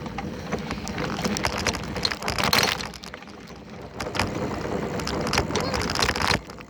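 Bicycle rattling and clicking as it is ridden, a noise the rider calls terrible, picked up by a camera taped to the bike. It gets louder for a moment about two to three seconds in.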